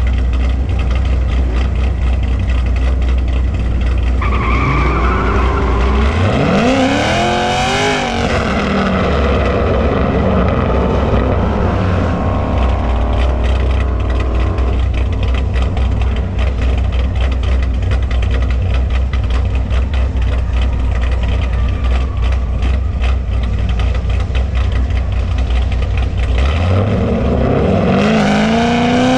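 Drag-race car engines: a loud, low, steady engine rumble, then a car launching hard about six seconds in, its engine pitch climbing quickly. Mixed engine noise continues, and another car launches with a rising engine pitch near the end.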